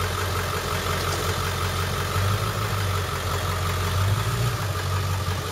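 A 2003 Ford F-250 Super Duty's 7.3-litre turbo-diesel V8 idling steadily.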